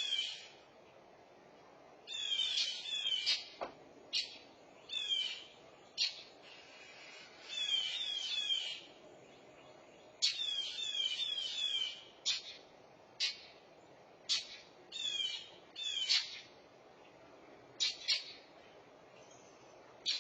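Northern mockingbirds giving alarm calls: bursts of harsh, rapid down-slurred notes alternating with single sharp chips, repeated every second or two. This is scolding over a fledgling under threat from a cat.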